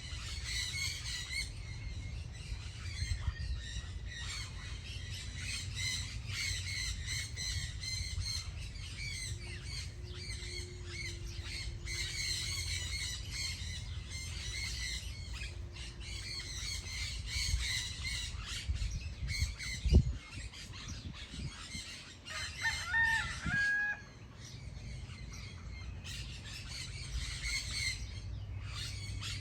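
Many small birds chirping and calling at once over a steady low rumble. A single sharp thump comes about twenty seconds in, and a short pitched call that sounds like a rooster crowing comes a little after it.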